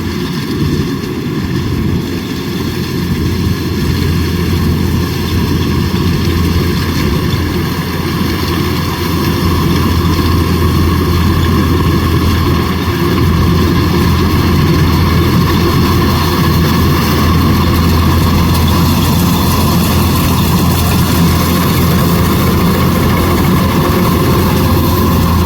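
Kubota DC105X combine harvester running steadily under load while harvesting rice: a diesel engine hum with the rush of the cutting and threshing machinery, growing a little louder about ten seconds in.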